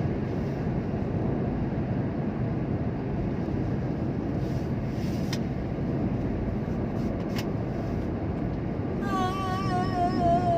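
Steady low rumble of a vehicle driving on the road, engine and tyre noise. Near the end, a warbling pitched tone starts over it.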